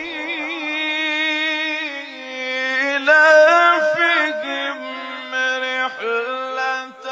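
Quran recitation chanted melodically by a single reciter: long held, wavering notes with ornamented turns. The phrase climbs to a higher, louder pitch about three seconds in.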